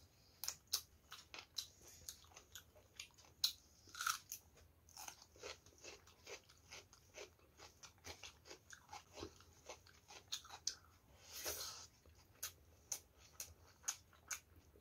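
Close-miked chewing of chicken drumstick meat and rice: irregular sharp crunches and wet mouth clicks, a few each second.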